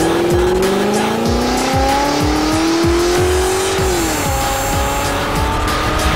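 Car engine revving, its pitch climbing steadily and then falling away about four seconds in, with tire squeal, over music with a steady beat.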